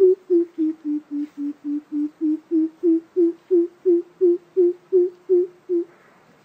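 Coucal giving its deep hooting call: a long, even series of low hoots, about three a second, dipping slightly in pitch then rising slowly, stopping shortly before the end.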